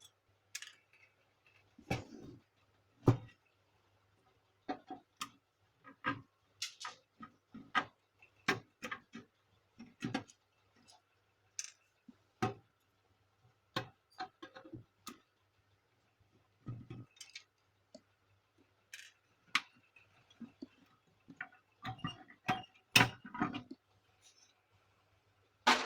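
Irregular clicks and knocks of plastic parts and small metal pieces being handled as a laser printer is taken apart, with a busier cluster of knocks near the end.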